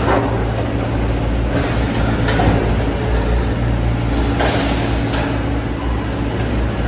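Excavator diesel engine running steadily, with a few short hisses over it.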